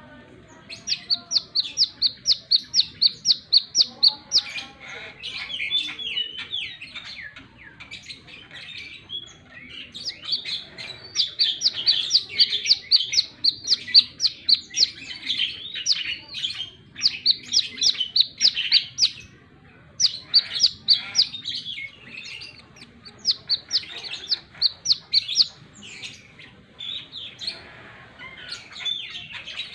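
Brown-throated sunbird (kolibri kelapa) singing: fast runs of sharp, high chirps, about six a second, each run lasting a few seconds with short breaks between.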